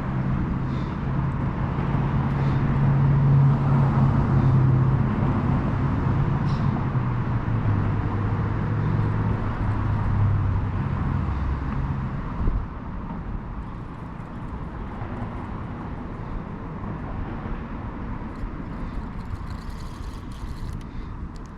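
A motor vehicle's engine hum, steady and low. Its pitch drops partway through, and it dies away about twelve seconds in, leaving a fainter steady outdoor hiss.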